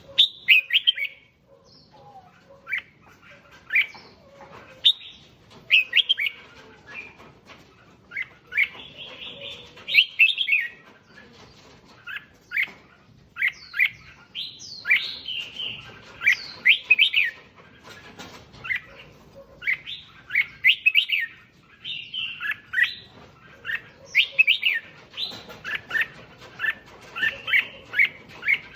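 Red-whiskered bulbul singing: short, bright phrases of a few quick chirping notes, coming about once a second.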